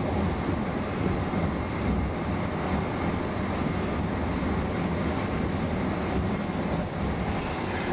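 Roslagsbanan X10p electric multiple unit running at speed, heard from inside the carriage: a steady rumble of wheels and running gear on the rails, with a faint steady high tone.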